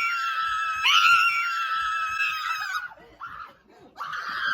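A person screaming in fright at a loose bird: high-pitched, long held screams, one running at the start and a new one about a second in that stops near 3 s, then a short scream near the end.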